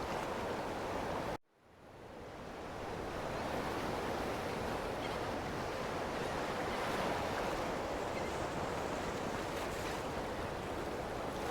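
Ocean waves washing steadily on a shore. About a second and a half in, the sound cuts out abruptly and fades back in over a second or two, like a splice or loop point in the recording.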